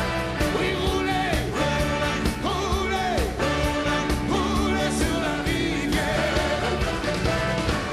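Rock and roll song playing: a male lead vocal sung in French over a full band.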